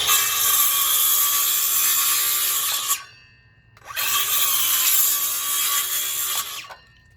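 DeWalt DCV581H cordless wet-dry vacuum motor switched on twice, running for about three seconds each time with a loud rushing of air. Each run starts with a quick rising whine as the motor spins up and ends with tones falling away as it spins down.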